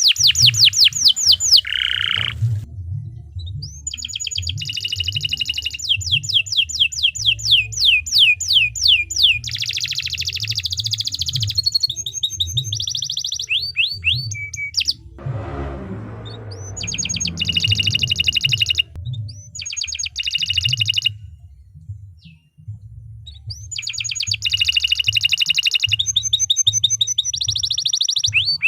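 Domestic canary singing a long, vigorous song of fast trills and rolls, broken by a few short pauses, over a steady low hum.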